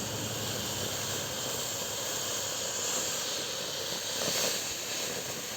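Firework fountain (Mystical's Cotton Candy pink star fountain) spraying with a steady hiss, beginning to die out near the end.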